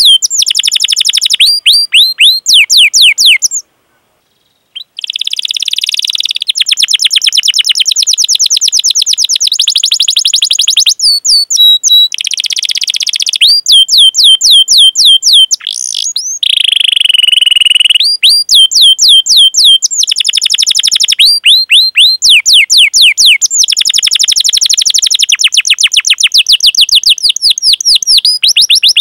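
Domestic canary singing a long song: runs of quick downward-sweeping 'cuit cuit' chirps alternating with fast, dense rolling trills. The song pauses for about a second around four seconds in.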